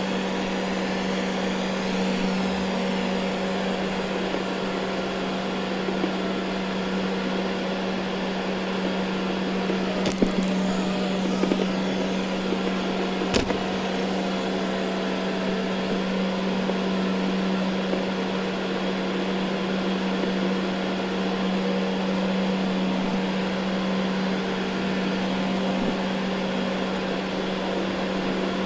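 Ecovacs Deebot N79 robot vacuum running steadily over carpet, a constant motor hum with brush and suction noise. A couple of brief clicks or knocks come about ten and thirteen seconds in.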